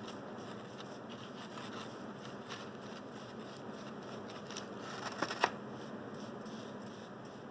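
Faint rustling and light handling as a paintbrush works thick sealant into the cracks of a rubber carburettor intake boot, with a few soft clicks about five seconds in.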